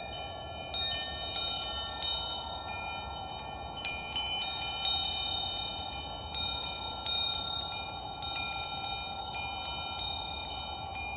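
Wind chimes ringing, struck at irregular moments with several high notes overlapping and ringing on, over a steady hiss. The loudest strikes come about 4 s and 7 s in.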